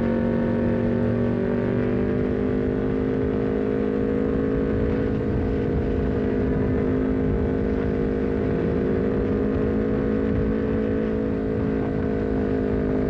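Honda CBR250RR's parallel-twin engine breathing through an aftermarket R9 header and short Leovince GP Corsa carbon silencer, pulling at a steady throttle. Its pitch rises slightly over the first few seconds, then holds steady.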